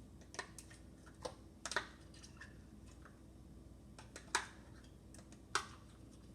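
A handful of light, sharp clicks and taps at irregular intervals, over a quiet room hum.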